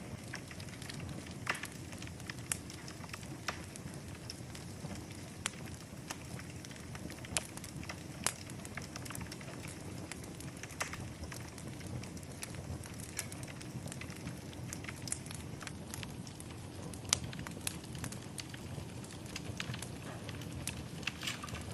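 Wood fire burning in a fireplace: a steady low rumble with irregular sharp crackles and pops, one louder pop a little after 17 seconds.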